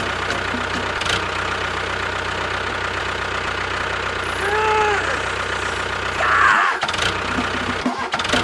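An engine-type running sound, steady and even throughout. About four and a half seconds in, a short tone rises and falls, and a brief hissy burst comes a little before the end.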